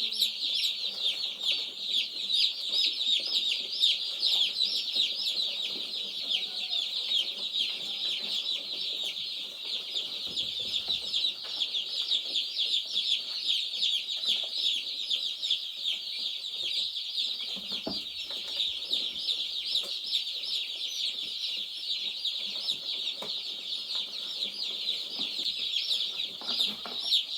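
A brooder full of day-old meat-bird and turkey chicks peeping continuously: a dense, unbroken chorus of many high-pitched cheeps overlapping.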